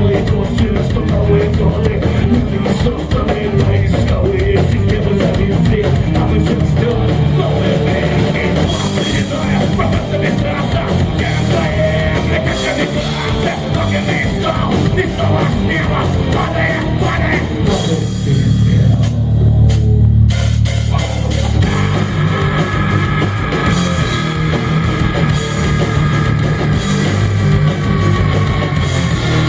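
Punk rock band playing an instrumental passage on distorted electric guitar, bass and drum kit. About two-thirds of the way through, the high end drops away for a few seconds under a held low note, then sustained guitar tones come in.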